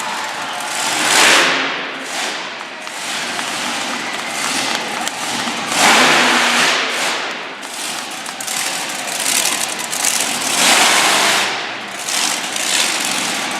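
Monster truck engine revving hard in repeated surges, loudest about a second in, around six seconds in and again near eleven seconds.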